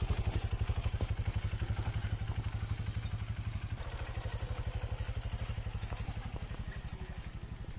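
Honda dual-sport motorcycle's single-cylinder engine running at low revs with a rapid, steady putter as the bike crawls along a muddy trail, fading slightly as it moves off.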